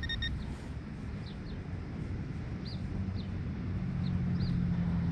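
A Garrett pinpointer's steady beeping tone cuts off just after the start. Then a bird chirps, short calls repeated every second or so, over a low outdoor rumble, while a steady engine hum grows in near the end.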